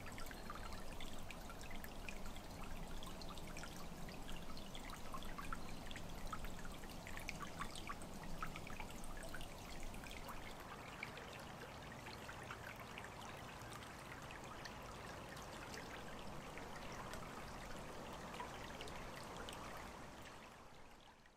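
Water trickling and splashing steadily, with many small drips and droplet sounds; it fades out near the end.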